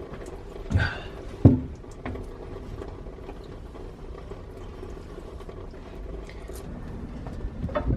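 Two knocks about a second in, the second sharper and louder, then a few faint clicks, over a steady hum: tool work on a diesel engine being torn down.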